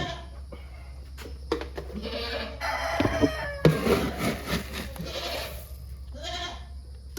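Goats bleating for their feed, several calls one after another.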